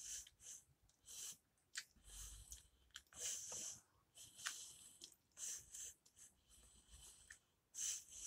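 Faint, close-up chewing of a mouthful of instant noodles (Ko-Lee Go Noodles, barbecue flavour), with soft wet mouth noises coming in irregular short bursts.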